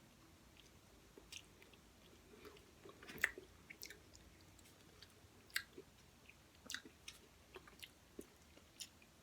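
Faint mouth sounds of a person eating: scattered soft smacks and clicks of chewing at irregular intervals, the loudest about three seconds in.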